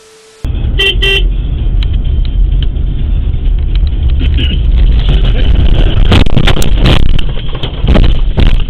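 Two short car horn toots, then loud vehicle and road rumble with scattered knocks and crackles that thicken in the second half.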